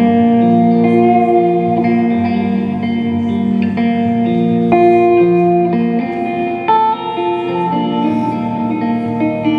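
Guitar playing an instrumental passage of a song, with held, ringing chords that change every second or so and no singing.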